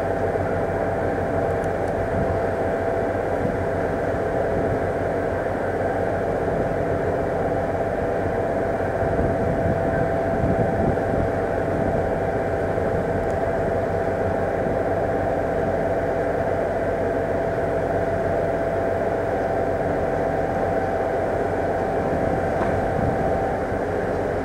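Limited express Kamome electric train running through the junction tracks: a steady rumble with a constant whine over it.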